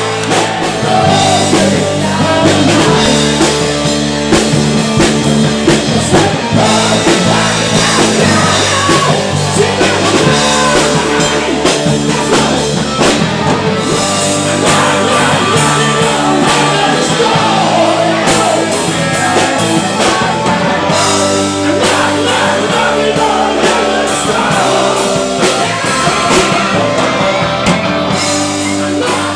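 Rock band playing live: a drum kit and bass-heavy band backing under a sung lead vocal.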